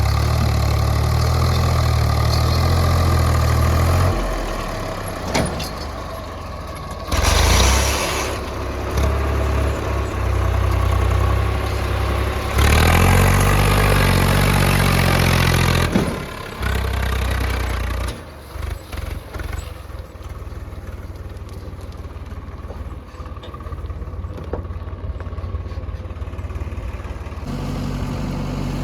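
Heavy diesel engine running, louder in two stretches as it works under load: briefly about seven seconds in, and again from about thirteen to sixteen seconds. It then drops to a quieter, uneven idle.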